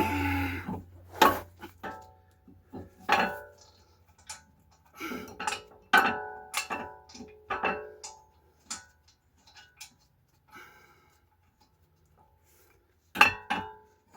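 Metal tools and car parts clinking and knocking together, with about a dozen irregular strikes. Each strike rings briefly, and a loud group of strikes comes near the end.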